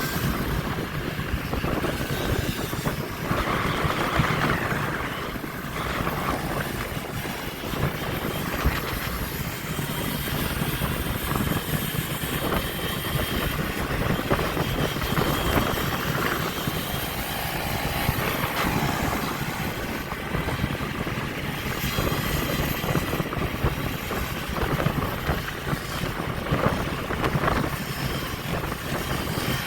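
Motorbike engines running, a continuous vehicle rumble with no clear pause.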